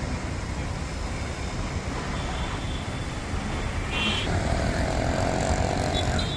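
Steady rumble of city road traffic, with a short high beep about four seconds in and a held mid-pitched tone from a vehicle after it.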